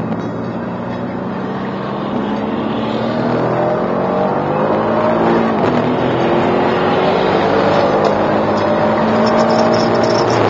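Mercedes-AMG C63 S's twin-turbo V8 heard from inside the cabin under hard acceleration, its pitch climbing and dropping once about halfway through at an upshift, with wind and road noise. Near the end a high buzzing rattle comes from the dashcam mount at speed.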